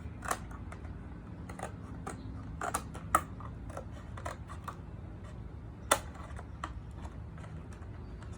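Scissors snipping and clicking irregularly as they cut through a milk container, with a couple of sharper snaps about three and six seconds in.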